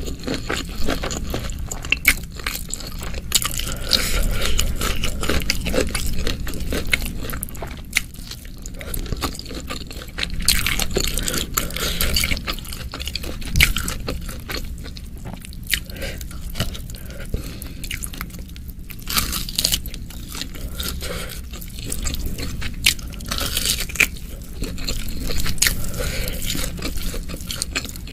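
Close-miked chewing of a hand-fed mouthful of rice and chilli-fried beef (oseng mercon), with many small, irregular wet clicks and smacks.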